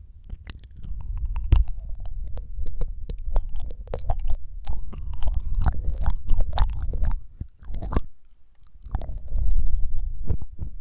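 Close-miked ASMR mouth sounds: rapid wet tongue flutters and clicks, coming in dense irregular runs with a short pause about eight seconds in.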